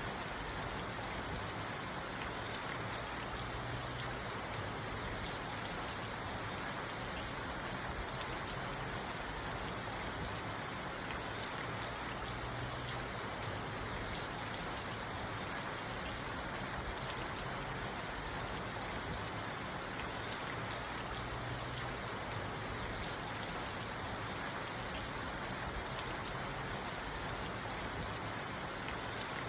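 Steady rain drumming on a parked car's roof and windows, heard from inside the cabin as a dense, even patter of drops.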